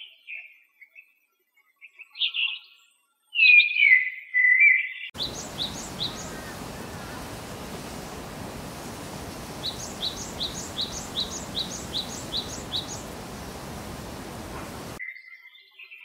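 Wild birds singing. Short warbled calls come first, the loudest a falling call about three and a half seconds in. Then, over a steady hiss, a run of about a dozen quick high chirps at roughly four a second comes past the middle.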